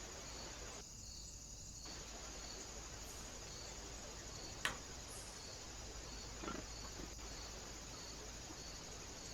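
Crickets chirping steadily, a regular pulse about twice a second over a constant high hiss. A single sharp click about halfway through, and a couple of soft knocks a couple of seconds later.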